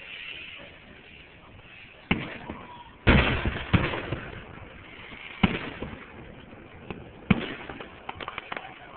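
Fireworks shells bursting overhead: a sharp bang about two seconds in, a louder one a second later trailed by crackling, more single bangs, and a quick run of small crackling pops near the end.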